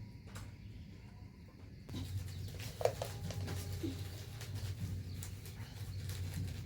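Rain pattering steadily, with many fine drips and taps, and a short bird call about three seconds in.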